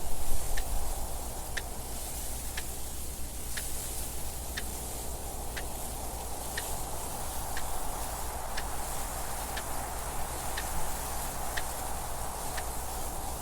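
Clock ticking steadily about once a second over a constant hiss of wind noise. The wind swells briefly near the start.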